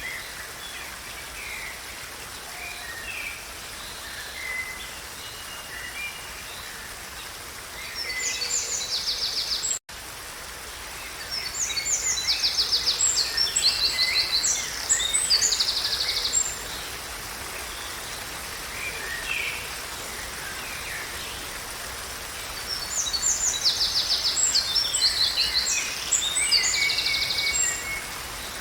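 Songbirds singing over a steady background hiss. Three spells of loud, rapid trilled song come and go, with softer scattered chirps between them. The whole sound cuts out for an instant about ten seconds in.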